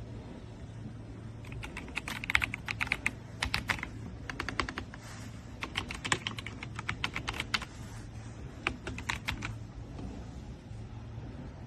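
Typing on an RK Royal Kludge S98 mechanical keyboard: quick runs of key clacks in several short bursts, starting about a second and a half in and stopping a couple of seconds before the end, over a steady low hum.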